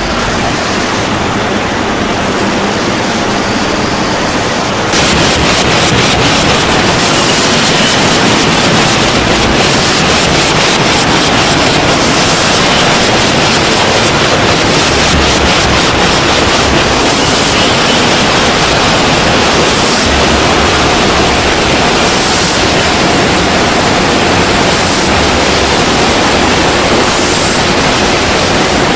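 Loud, steady rushing noise with no clear pitch, stepping up and turning brighter and hissier about five seconds in.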